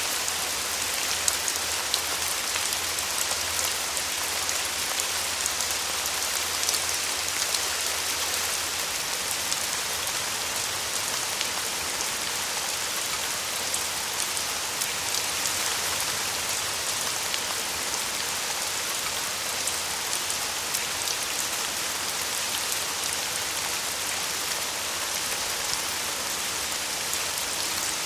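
Steady rain falling: an even, dense hiss full of small drop ticks, with now and then a single louder drop.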